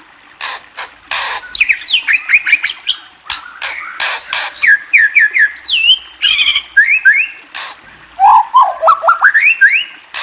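A songbird singing a varied song: quick runs of rising whistled notes, some sliding down, broken by short harsh scratchy notes.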